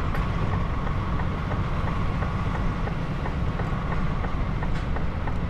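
HGV truck's diesel engine running at low speed, heard from inside the cab: a steady low rumble with a faint regular ticking a little over twice a second.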